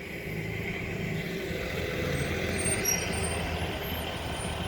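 School bus engine running steadily, growing a little louder through the middle and easing slightly toward the end.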